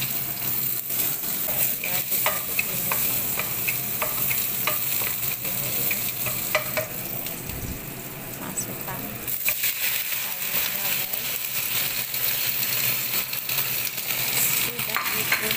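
Stir-frying in a wok: hot oil sizzling steadily while a wooden spatula scrapes and clicks against the pan. The sizzle gets louder about nine seconds in.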